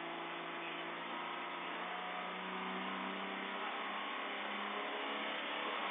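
A tractor's engine running steadily, growing slightly louder over the few seconds.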